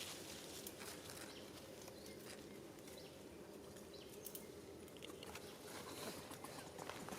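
Faint outdoor ambience: a steady low background hum with many scattered light clicks and rustles.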